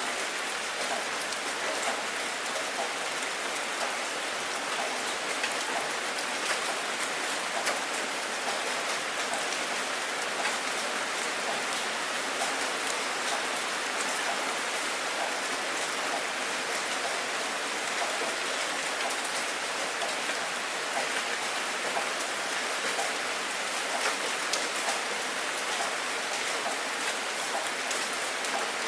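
Steady rain falling, an even hiss scattered with many small drop ticks on a hard surface.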